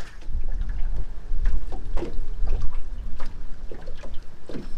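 Wind rumbling on the microphone and water lapping against a small fishing boat, with a few light knocks scattered through.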